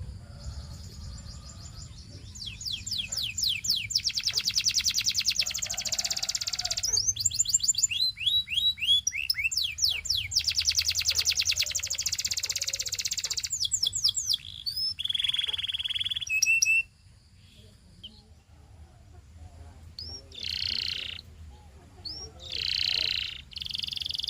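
Domestic canary singing: fast trills of rapidly repeated sweeping notes and rolls, with a lull a little past the middle and short bursts of song after it.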